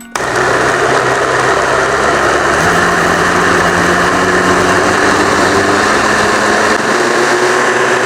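Electric blender switched on, its motor running loud and steady as it purées cooked tomato gravy with a little added water. About two and a half seconds in, the motor's pitch steps up.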